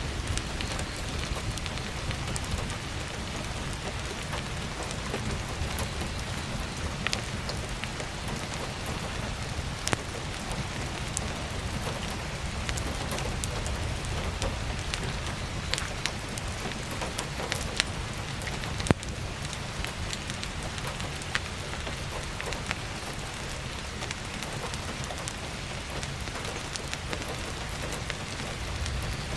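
Steady heavy rain on a skylight, with scattered sharp pops and crackles from burning firewood in a wood stove.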